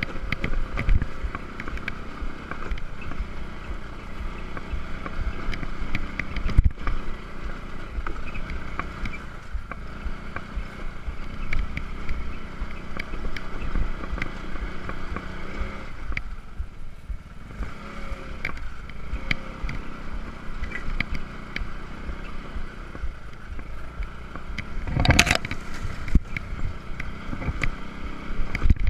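Small scooter engine running under load on a rough sandy, stony track, with frequent rattles and small knocks from the bike, easing off briefly past the midpoint. One loud knock rings out near the end.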